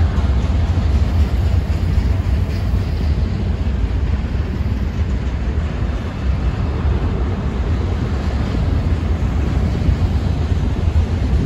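Double-stack intermodal freight train's well cars rolling past: a steady, heavy rumble of steel wheels on rail.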